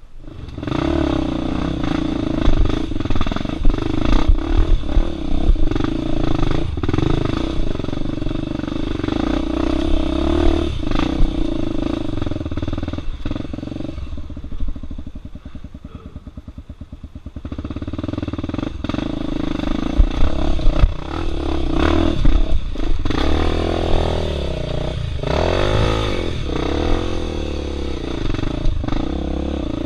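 Enduro motorcycle engine running and revving under load, with knocks and clatter from the bike working over rocks. About halfway it falls back to a slow, low chugging for a few seconds, then picks up and revs again.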